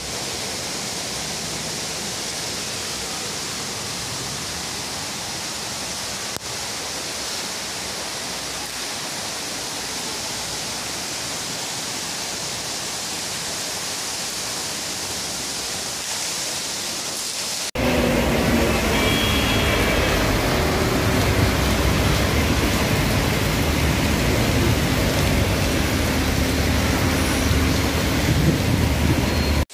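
Steady hiss of heavy rain. About 18 seconds in it cuts to louder, deeper rain noise with the rumble of traffic driving on a wet road.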